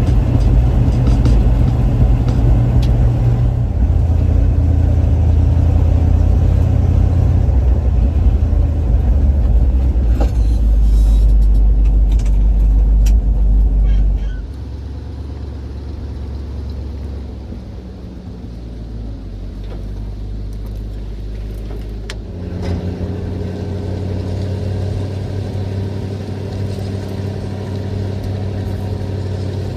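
1972 Chevrolet C50 dump truck's small-block 350 V8 running under load on the road, its note stepping lower for the first half. About halfway through it drops in loudness as the engine eases off, then picks back up to a steady pull near the end.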